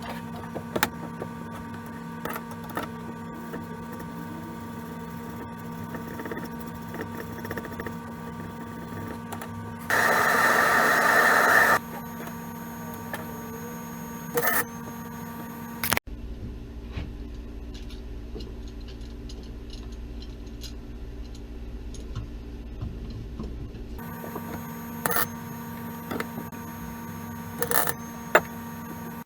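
A short burst of MIG welding arc, about two seconds long, from a spool gun laying aluminum wire. It is set against the welder's steady electrical hum and scattered sharp clicks.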